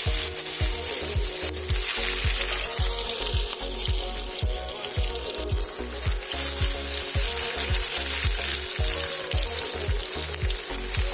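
Onion and tomato slices sizzling as they fry in desi ghee in an aluminium pan over a wood fire, a steady hiss throughout. Background music with a steady beat plays underneath.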